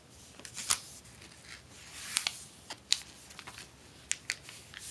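A sheet of printer paper being handled and folded into a paper airplane: soft rustling with several sharp crisp crackles as the paper is pressed and creased.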